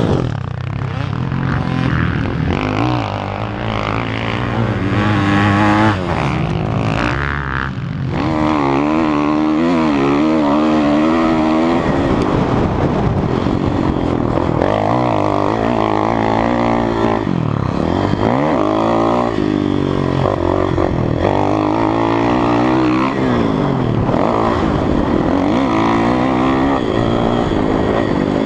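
Motocross dirt bike engine revving hard, its pitch rising and falling again and again as the throttle is opened and chopped around a corner.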